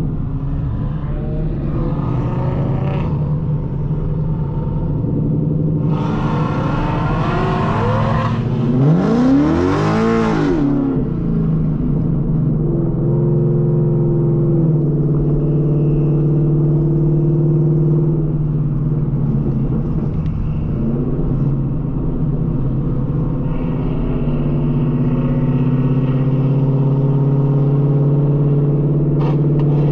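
Car engines running steadily. Around eight to eleven seconds in, one car gets louder and its engine pitch rises and then falls, like a car passing close by or a short rev, before it settles back to a steady drone.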